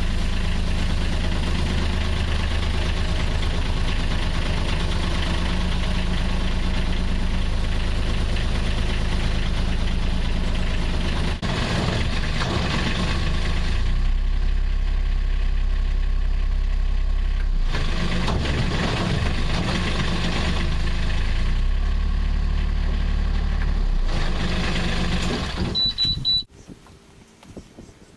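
Narrowboat's diesel engine running, its speed changing several times as the throttle is worked. Near the end a short high beep sounds and the engine cuts off.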